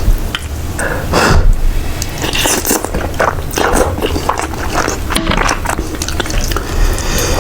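Close-miked mukbang eating: a person biting and chewing food, with many short, irregular mouth sounds.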